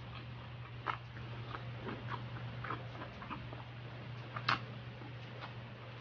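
Close-miked chewing and wet mouth clicks of someone eating longganisa sausage and fried rice, irregular small clicks with two sharper ones about a second in and near the end, over a steady low hum.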